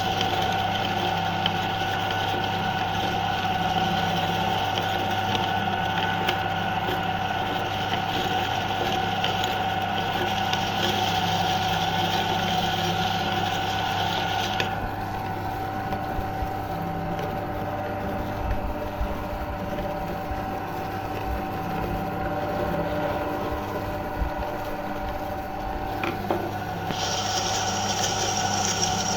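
Electric meat grinder's motor running steadily with a low hum, grinding Oreo cookies. Its higher hiss drops away about halfway through, and a higher whine comes in near the end.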